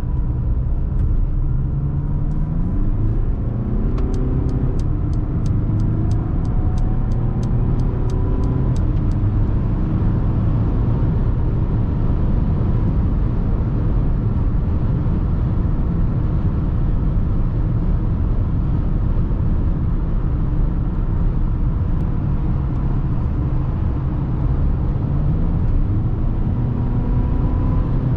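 Inside the cabin of a Mercedes GLA 220d, its 2.0-litre four-cylinder diesel accelerates up through the gears, with the pitch stepping up. A run of evenly spaced ticks, about two a second, follows for several seconds. Then comes steady cruising with low road and tyre rumble, and the engine note rises again near the end.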